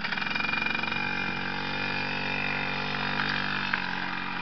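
A 2000 Suzuki JR50's small two-stroke single running steadily at low, even throttle, dropping slightly in pitch and level near the end.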